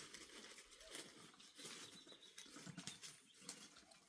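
Near silence with faint, irregular light taps and pattering.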